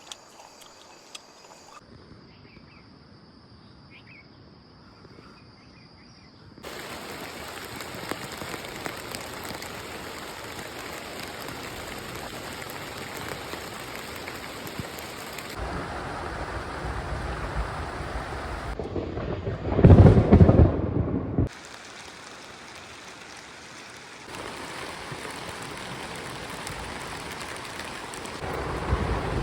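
Crickets chirring at first, then steady heavy rain, with a loud low rumble of thunder about twenty seconds in, the loudest moment. The sound changes abruptly several times, as between spliced clips.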